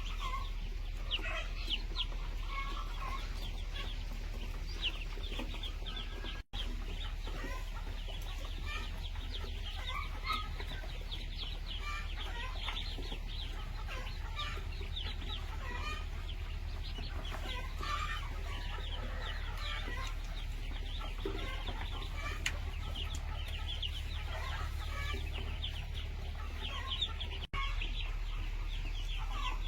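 A flock of chickens clucking and chirping continuously, with many short high calls, over a steady low hum.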